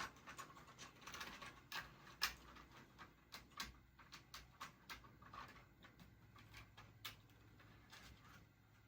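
Faint, irregular clicks and taps of small objects being handled, sharpest a little after two seconds in and thinning out near the end.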